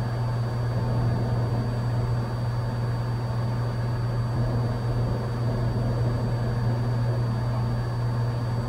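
Cessna 182's piston engine and propeller droning steadily in level cruise, heard inside the cabin.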